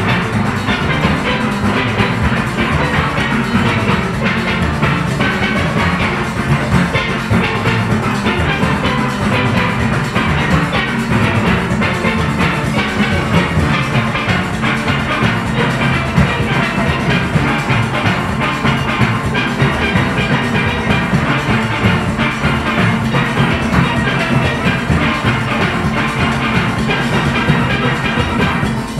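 A full steel orchestra of about 40 players playing steelpans with the drum-and-percussion rhythm section, a steady, dense band sound.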